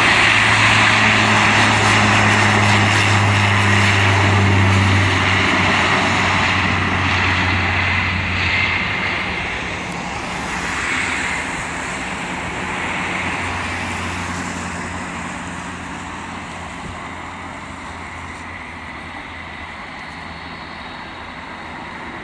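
Bombardier Q400 turboprop's engines and propellers running at high power with a steady low propeller hum over a broad roar. The sound is loud at first and fades gradually from about five seconds in as the aircraft moves away, typical of a turboprop departing.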